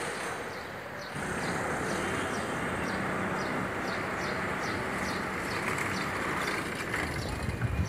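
Steady street noise of a city road, with a bird calling a short, high, falling chirp over and over, about twice a second.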